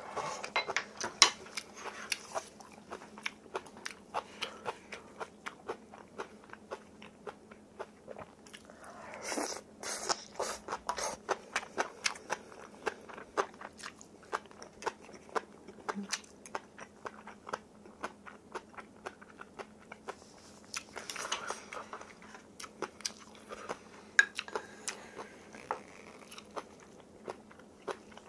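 Close-up chewing and crunching of food, with many small crisp mouth clicks throughout and a louder, noisier stretch about nine seconds in.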